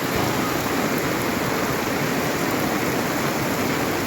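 Fast-flowing water rushing steadily, a continuous roar of floodwater or a swollen stream.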